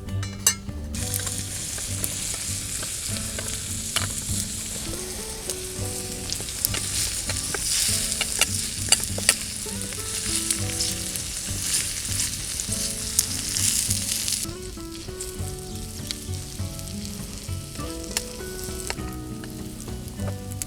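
Food sizzling hard in a hot iron frying pan over a campfire, with a few sharp clicks from a utensil working in the pan. The sizzle dies away sharply about fourteen seconds in.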